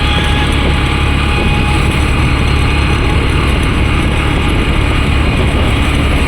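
Honda SP 125 motorcycle's single-cylinder engine running steadily at idle.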